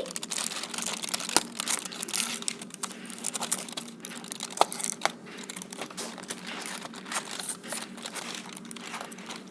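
Foil wrapper of an advent calendar chocolate crinkling and tearing as it is unwrapped: a dense run of small crackles over a steady low hum.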